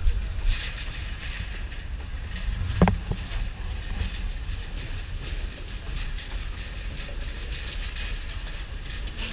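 Excursion passenger train rolling slowly across a steel truss bridge: a steady low rumble of wheels on the rails, with one sharp clank about three seconds in.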